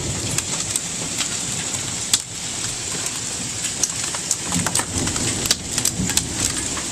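Pea- to nickel-size hailstones pelting down with heavy rain: a dense steady hiss broken by many sharp ticks and clacks of stones striking.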